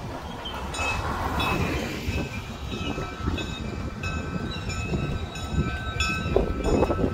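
Slow-moving diesel freight train, with a steady low rumble from the locomotives and rolling cars and thin high squeals from the wheels on the rails. A car drives past close by about a second in.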